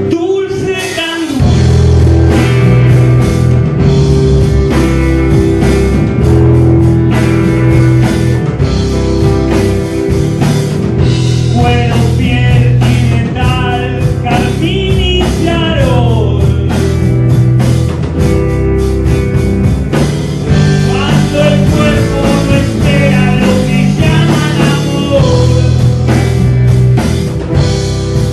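Rock band playing live, with electric guitar, bass and drums; the full band comes in louder about two seconds in.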